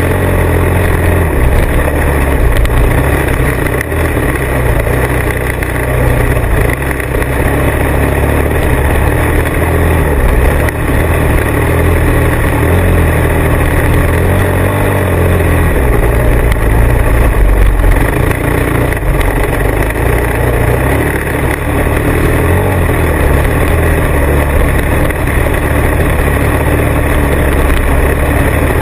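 Motorcycle engine running while riding, loud and continuous, its low pitch rising and falling as the throttle changes.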